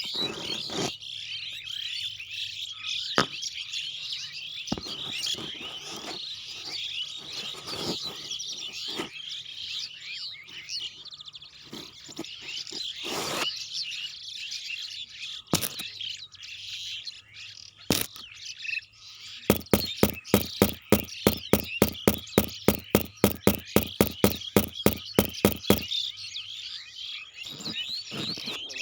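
Small birds chirping continuously. In the second half, a run of sharp, evenly spaced clicks, about four a second, lasts some six seconds and is the loudest thing heard.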